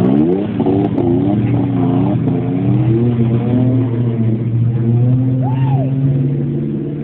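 Ford Mustang engines revving sharply once at the start, then running at a steady low note as the cars pull away.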